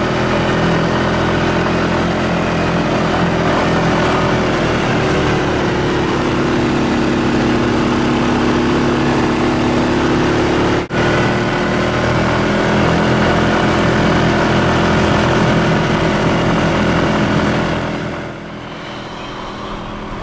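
Quad bike engine running steadily. The sound breaks off for an instant about eleven seconds in, then carries on, and drops somewhat in level near the end.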